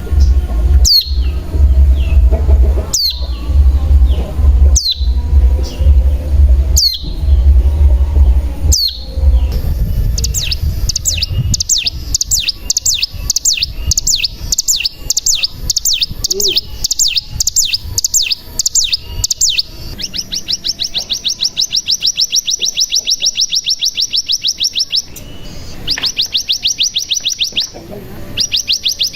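Ciblek gunung (cigun) singing: first a run of high call notes that sweep downward, about one every two seconds, over a low rumble. From about ten seconds in comes a long, fast trill of rapid repeated notes, the 'bren', which turns denser and buzzier about halfway through and breaks off briefly twice near the end.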